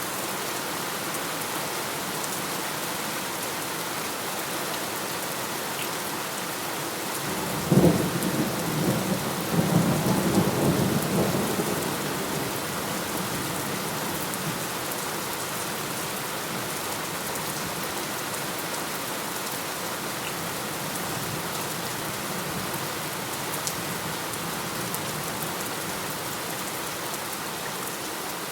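Steady heavy rain falling, with a clap of thunder about a quarter of the way in that starts with a sharp crack and rumbles for a few seconds before fading back into the rain.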